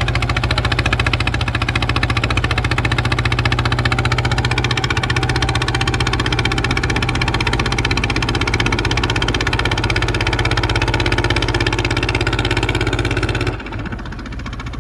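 Kubota ZT 155 single-cylinder diesel engine running with a fast, even knock. About thirteen seconds in it turns quieter and duller but keeps running.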